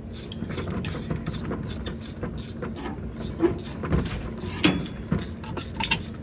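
Hand ratchet wrench clicking in quick runs, a few clicks a second with a few louder strokes, as the brake booster's bolts are run in by hand.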